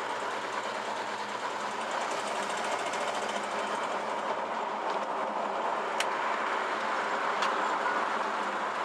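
1968 Chevrolet El Camino driving down the road: steady engine and road noise of the car under way, with two sharp clicks, about six and seven and a half seconds in.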